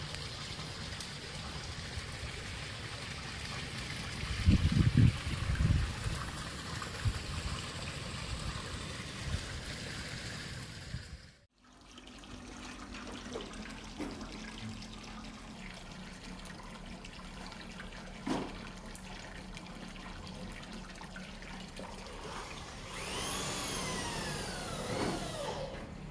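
Water from an artificial cliff-relief waterfall splashing and trickling steadily into a pond. The sound cuts off abruptly about eleven seconds in and resumes. A few low thumps come early on, and near the end a pitched sound rises and falls briefly.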